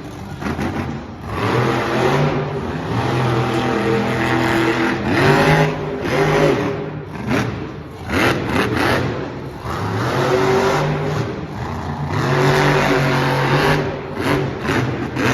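Monster truck engine revving hard over and over, its pitch climbing and dropping several times.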